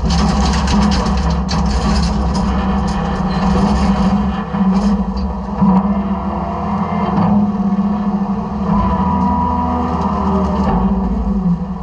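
Side-loader garbage truck running, a steady low hum from its engine and hydraulics, with rattling and clattering in the hopper that is busiest in the first few seconds.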